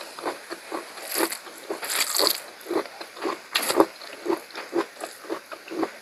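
Close-miked chewing of pork curry: steady wet mouth smacks, about two to three a second, with a few louder crunchy bites.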